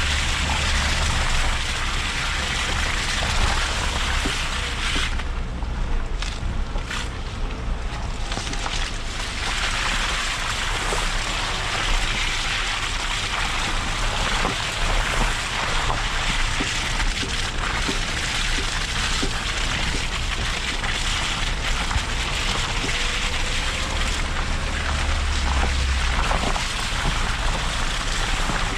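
2013 Suzuki Jimny's 1.3-litre inline-four running as the car drives off road, under a steady low rumble and a rushing noise of tyres and wind. The hiss thins out for a few seconds about five seconds in.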